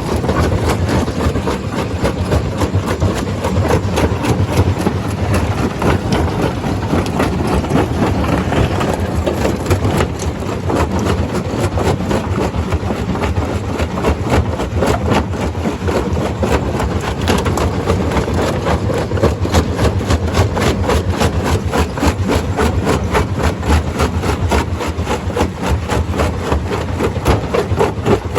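Stone crusher running, with a dense, continuous clatter of rock over a low mechanical drone.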